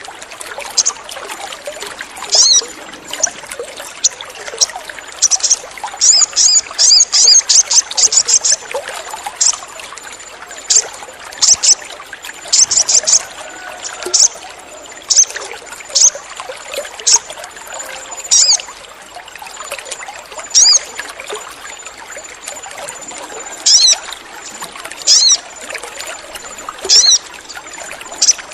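Sogon bird calling in short, sharp high chirps, some sliding down in pitch, with a fast rattling run of them about six seconds in, over a steady hissing background. These are the sogon's chirping calls, played as a lure to get a caged sogon singing.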